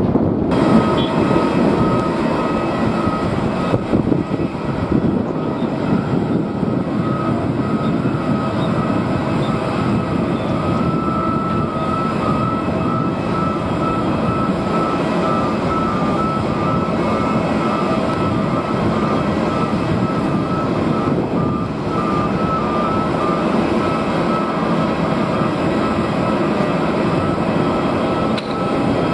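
Jet airliner engines running steadily: a constant rumble with a thin whine that holds its pitch throughout.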